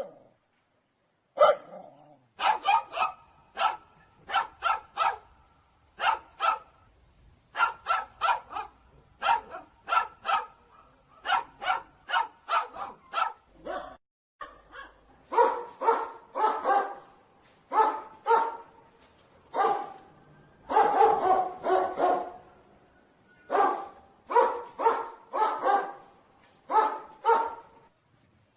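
A dog barking over and over in quick runs of two to five sharp barks, with short pauses between runs.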